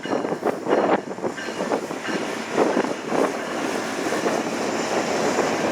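Train passing with a steady rumble, overlaid by heavy, gusting wind buffeting the microphone.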